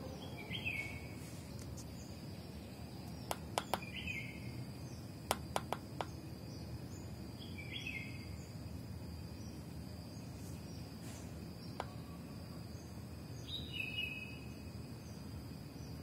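A bird repeating a short chirped call four times, a few seconds apart, over a steady low background rumble and a faint, steady high-pitched whine. Two quick clusters of sharp clicks, about three and five seconds in, are the loudest sounds.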